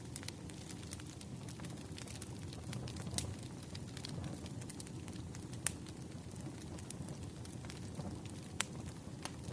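Campfire burning: a steady low rush of flames with frequent sharp crackles and pops of the burning wood, a few of them louder than the rest.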